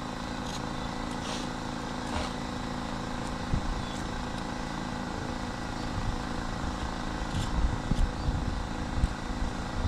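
Outboard boat engine idling steadily, with irregular low rumbles and bumps joining in during the second half.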